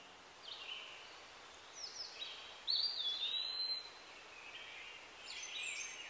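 Birds calling: scattered short, high whistled and chirping notes, some sliding in pitch, over a faint even hiss.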